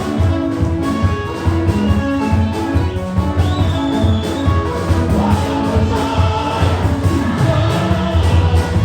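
Church band music with a heavy bass line and a steady beat.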